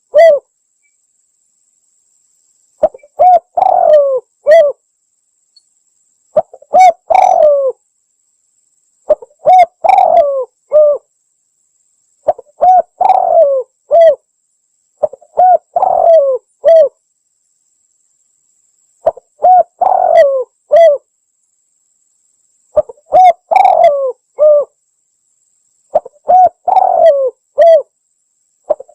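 Spotted dove (tekukur) cooing: a short phrase of several low coos, repeated eight times about every three to four seconds with silence between, used as a lure call.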